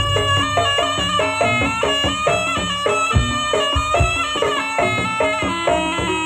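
Javanese jaranan ensemble music: a reedy shawm (slompret) playing a stepping melody over drums and gong strikes.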